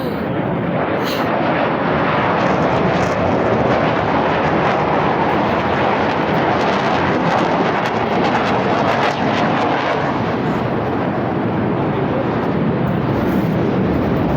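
Loud, steady roar of two jet aircraft flying past low, swelling over the first few seconds and then holding.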